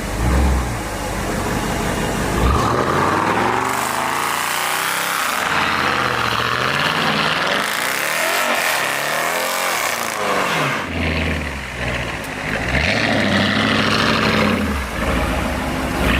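Dodge Challenger with a new aftermarket exhaust, its engine revving up and down about three times, then running lower and steadier.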